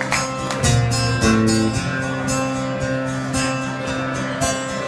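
Acoustic guitar strumming the introductory chords of a song, played live, with the chords changing every second or so.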